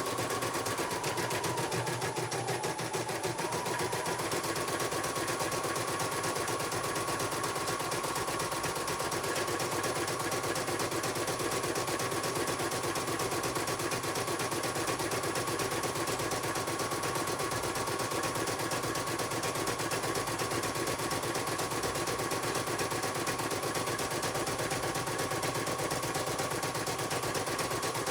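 CNY computerized embroidery machine stitching at speed: a rapid, even needle clatter with a steady motor whine whose pitch dips briefly about two seconds in, then holds.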